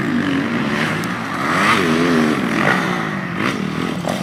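Motocross bike engine revving hard, its pitch rising and then falling about two seconds in, as the rider takes a big double jump.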